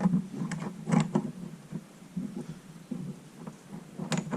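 Clicks and knocks of metal parts being handled as the oil filter cover is fitted and its first bolt started on a Honda 400EX engine. The knocks are irregular, in a cluster about a second in and another near the end.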